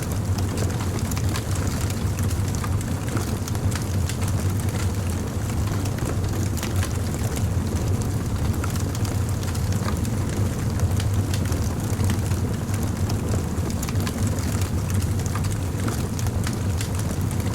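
Fire crackling: frequent small, irregular snaps and pops over a steady low rumble.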